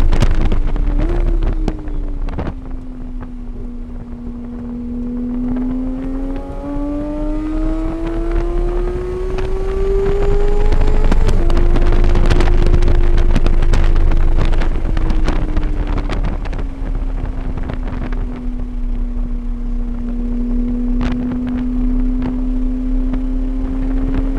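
Engine of a vehicle lapping a race track, heard onboard: its pitch climbs and falls with speed, with sudden steps at gear changes about a second in, near the middle and around eleven seconds in. Wind buffets the microphone throughout.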